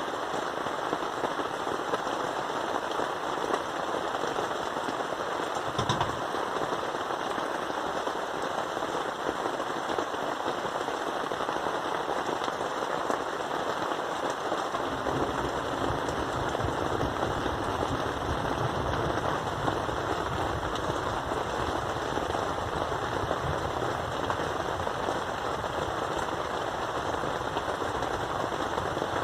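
Heavy rain drumming close to the microphone, a dense, steady patter of fast drops. About halfway through, a deeper rumble joins in low down.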